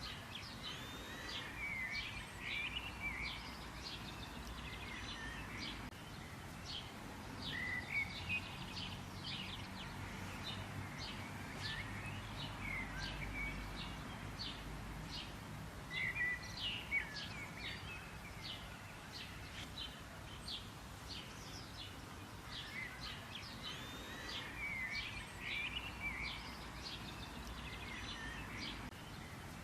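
Songbirds calling: rapid short chirps throughout, with warbling phrases every few seconds, over a low steady background rumble.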